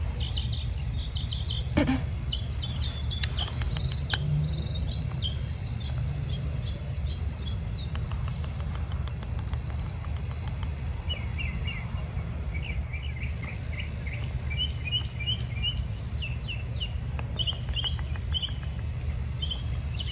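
Small wild birds chirping outside, in repeated runs of quick, high chirps, over a steady low rumble. A couple of sharp clicks come in the first few seconds.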